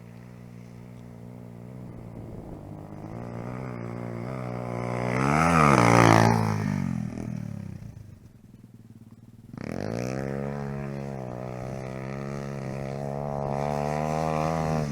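Dirt bike engines: a steady engine note throughout while a bike rides past about six seconds in, growing loud with its pitch swooping up and down as it passes. After a short lull an engine comes back in sharply and runs on at steady revs.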